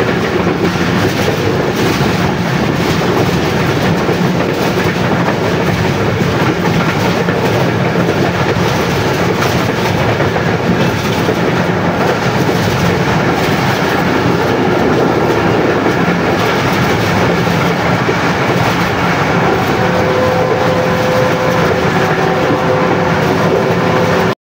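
Passenger express train running at speed, heard from inside a coach by the window: steady, loud noise of the wheels running over the track.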